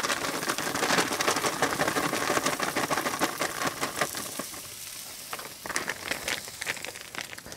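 Schupfnudeln (potato dumplings) tipped from a plastic bag into hot bacon fat in a cast-iron Dutch oven, sizzling and crackling as they hit the fat, with the bag crinkling. The sizzle is loudest in the first few seconds and then dies down.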